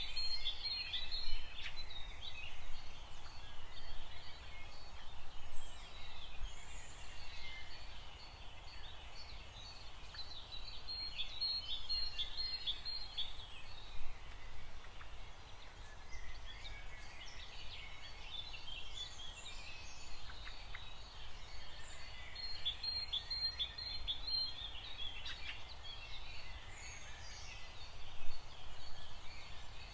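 Birds chirping and twittering in a continuous chorus, with a dense flurry of rapid chirps about every eleven seconds.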